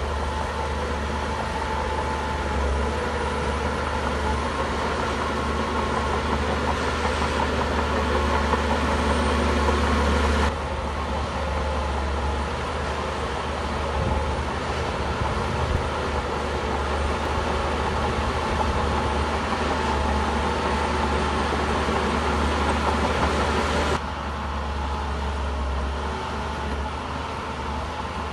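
Shantui bulldozer's diesel engine running steadily with a deep, constant drone. The sound changes abruptly about ten seconds in and again a few seconds before the end.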